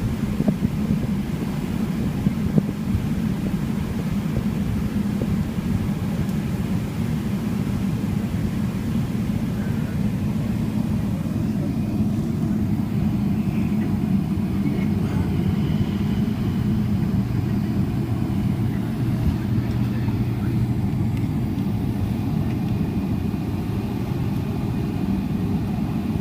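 Steady low rumble of a Boeing 777-300ER's GE90 jet engines and airflow, heard from inside the cabin, with a few light knocks in the first few seconds.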